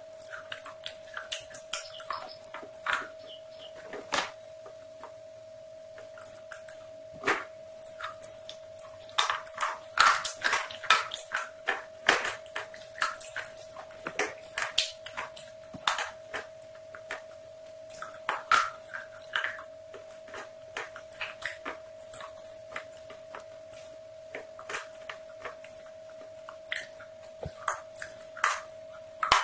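Close-miked chewing and crunching of crispy KFC spicy fried chicken: irregular clusters of sharp crackly crunches with short pauses between, busiest in the middle. A constant steady tone sits underneath.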